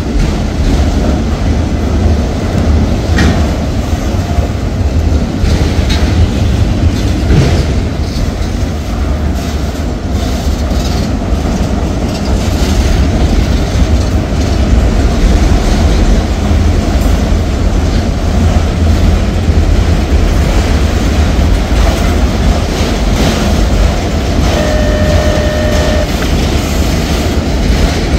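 Freight train of autorack cars rolling past at close range: a loud, steady rumble of wheels on rail, with occasional clacks as the wheels cross rail joints, and a brief steady squeal near the end.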